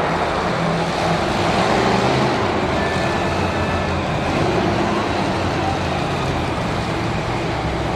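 Monster truck engine running loud, revving up and down.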